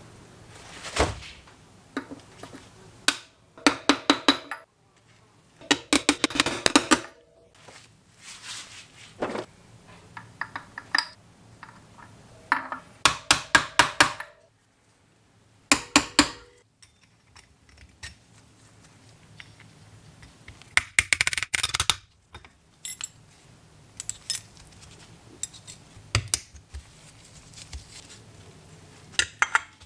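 Small metal parts and tools clinking and rattling against each other in short bursts of rapid clicks, with single clinks and knocks in between.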